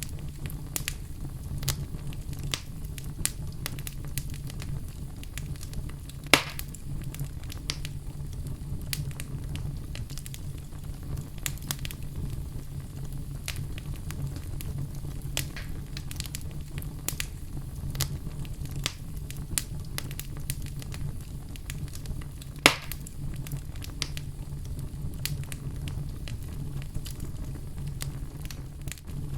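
Wood fire burning in a fireplace, crackling with a steady run of small snaps over a low rumble. Two louder pops about 6 seconds and 23 seconds in.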